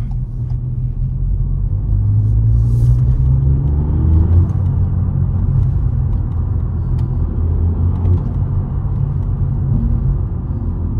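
Ford Fiesta ST Mk8's turbocharged three-cylinder engine with a Milltek exhaust and the stock intake, heard from inside the cabin while driving in second and third gear at low revs. The revs climb for about two seconds a couple of seconds in, then hold at a steady drone with a little intake noise.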